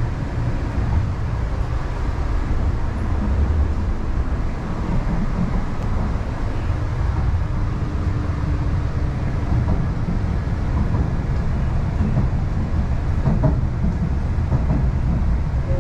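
MTR East Rail line R-Train electric multiple unit running along the line, heard inside the carriage: a steady low rumble of wheels on rail, with a few short clicks about 13 seconds in.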